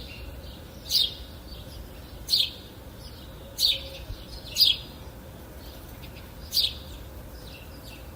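A songbird calling with short, sharp chirps that drop in pitch, five in all, spaced about one to two seconds apart.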